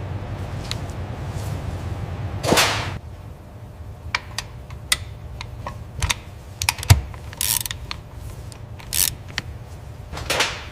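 Hand-tool work on metal parts. A low steady hum for the first few seconds gives way to scattered sharp metallic clicks and clinks with some ratchet-like ticking. Two short hissing whooshes come in, one about two and a half seconds in and one near the end.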